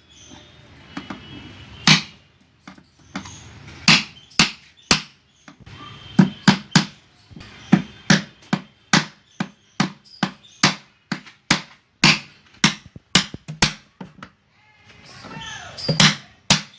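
Repeated sharp knocks, about two a second, in short runs with brief pauses, from work on a brooder box.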